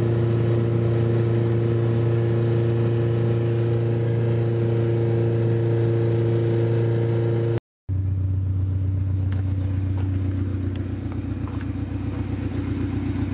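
B16-swapped Honda Civic's four-cylinder engine and exhaust running at steady revs, a constant drone. About 8 s in it cuts off abruptly and a second steady stretch follows at a slightly lower pitch.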